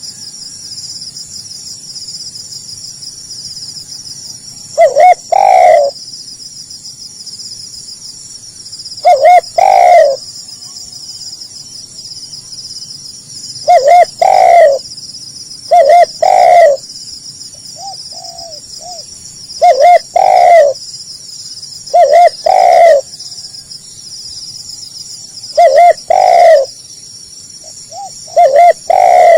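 Spotted dove cooing: about eight loud, short phrases of a couple of quick coos and a longer coo, repeated every few seconds, with one fainter phrase between them. A steady high insect buzz runs underneath.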